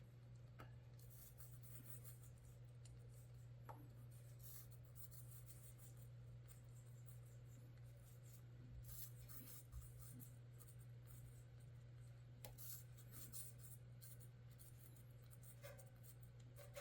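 A parrot's beak nibbling and scraping into a piece of apple: faint, irregular crisp crunches. A steady low hum runs underneath.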